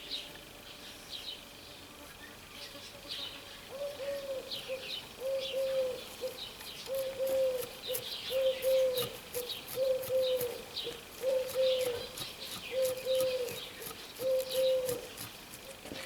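A bird repeating a low cooing call, about eight times at an even pace, with small birds chirping and faint high ticks alongside.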